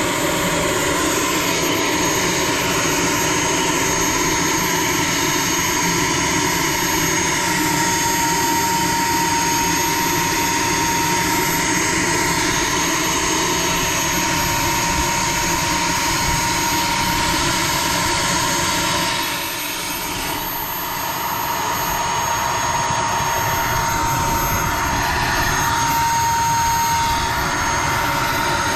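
A model jet turbine running steadily, with a constant high whine over a dense roar. The level dips briefly about twenty seconds in.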